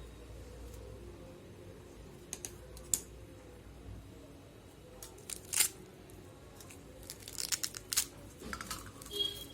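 Pomegranate being broken apart by hand: scattered sharp cracks and tearing crackles of rind and seeds, sparse at first and busier in the second half.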